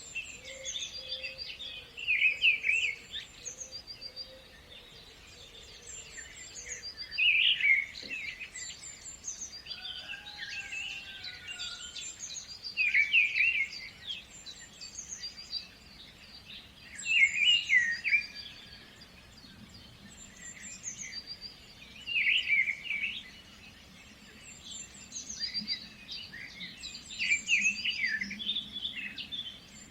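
Birds singing in a nature soundscape: a louder chirping song phrase comes about every four to five seconds, with short high chirps from other birds in between.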